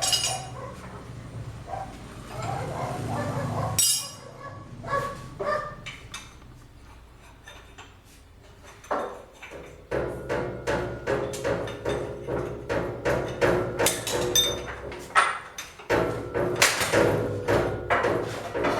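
Metal knocks and clinks of tools and tractor parts being handled during disassembly, coming thick and fast in the second half, with sudden changes that sound like cuts.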